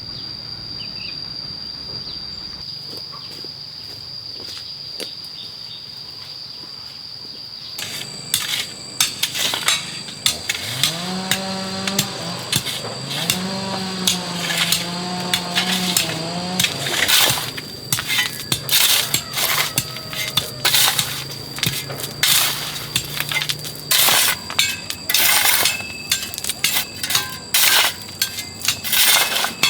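Insects buzzing steadily at first. From about eight seconds in, repeated sharp knocks of work. A cow moos twice in the middle, the second call long and held.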